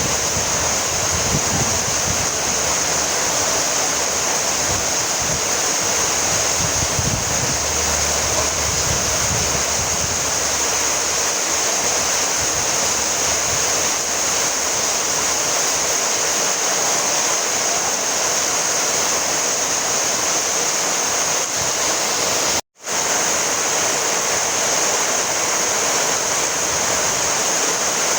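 Steady heavy rainfall, an even hiss of rain with a low rumble coming and going in the first ten seconds or so. The sound drops out completely for a split second about 23 seconds in.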